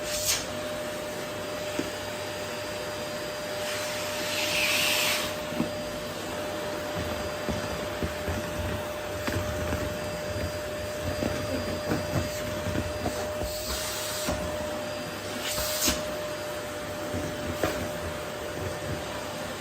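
Vacuum cleaner running steadily, with a steady motor whine under the suction noise, as the nozzle is worked over a wooden floor picking up rose petals. The suction rushes louder and hissier a few times, around 4 seconds in and again near 14 and 16 seconds, with small clicks and ticks between.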